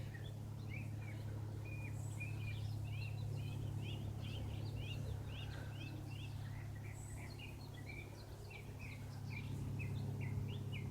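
Steady low drone of a Cessna light plane's piston engine, swelling slightly near the end, with small birds chirping in quick, repeated short notes throughout.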